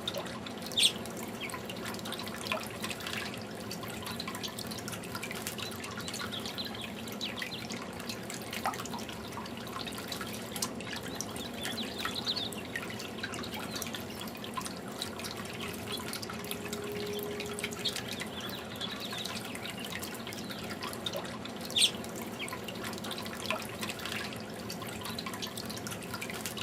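Fountain water dripping and trickling steadily, with two brief louder sharp sounds standing out, about a second in and near the end.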